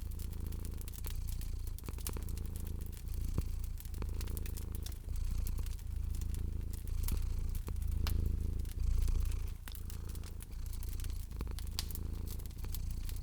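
Domestic cat purring steadily, a low purr that swells and eases about once a second with its breathing, over the scattered sharp pops and crackles of a wood fire.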